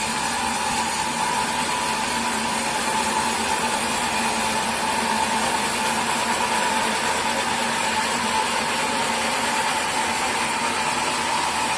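Sawmill machinery running steadily: a constant mechanical hum with a steady whine, with no cut starting or stopping.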